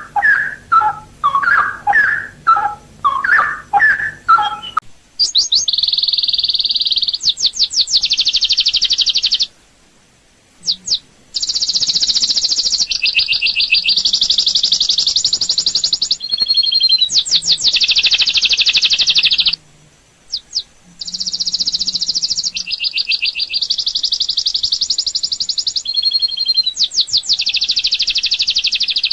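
Birds singing: a run of lower repeated call notes for about five seconds, then long bouts of rapid, high trilling chatter lasting several seconds each, broken by short pauses twice.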